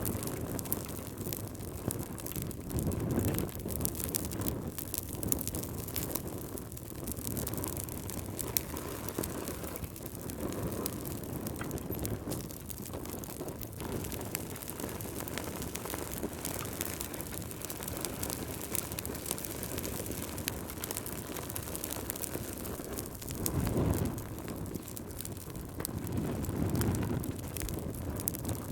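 Wood fire crackling with many small pops, over a low wind that swells and fades in gusts every several seconds.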